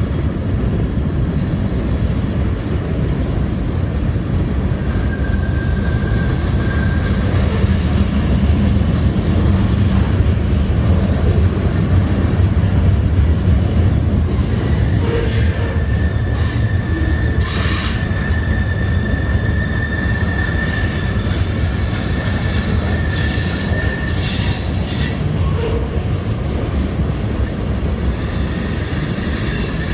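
CSX freight train cars rolling steadily past with a continuous rumble. High-pitched wheel squeals come and go, mostly in the second half.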